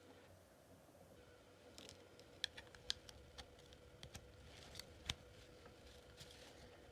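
Faint scattered clicks and ticks of small objects being handled, a few sharper ones among them, over a steady faint hum.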